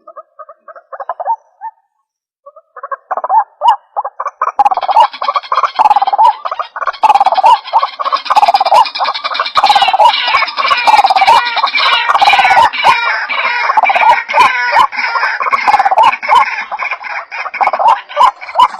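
White-breasted waterhen calling: a few short notes, a pause of about a second, then from about three seconds in a dense run of rapidly repeated calls that keeps going, as of several birds calling together.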